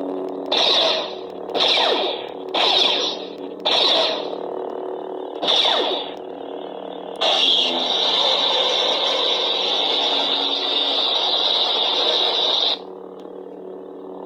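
Eleskoco toy lightsaber's speaker playing a lightsaber sound font: a steady electric hum with five swing swooshes in the first six seconds. About seven seconds in, a harsher effect starts, holds evenly for about five and a half seconds, and cuts off, leaving the hum.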